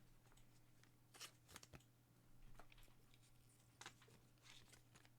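Near silence with faint clicks and a soft rustle of trading cards being handled, over a steady low hum.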